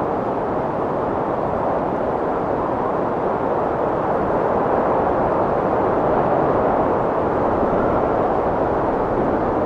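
Strong wind blowing in a steady, dense rush that swells a little after the middle.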